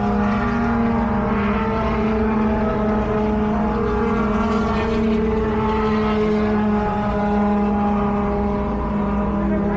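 Race truck engine heard from an onboard camera, running at a steady, nearly constant speed with a strong droning note.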